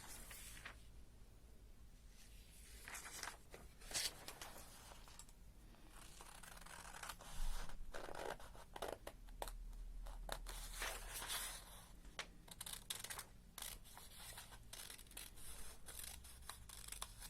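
Scissors cutting sheets of coloured paper: irregular short snips and rustles as the paper is cut and handled.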